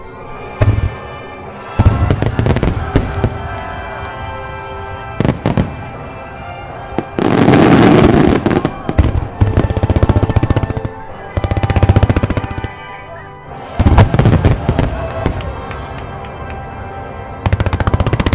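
Fireworks going off in a series of sharp bangs and crackles, with a dense crackling burst about seven seconds in and rapid crackling near the end, over music.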